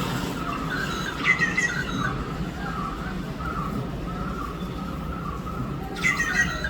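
Birds calling in a steady run of short repeated chirps, with two louder, harsh squawks: one about a second in and one near the end.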